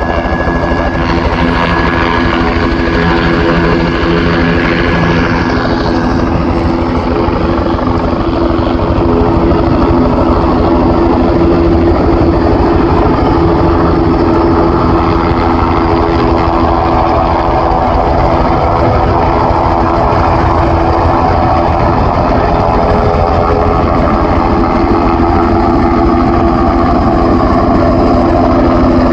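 Turbine helicopter running close by: a steady rotor beat and engine drone. A high turbine whine is heard for the first few seconds and fades out about six seconds in.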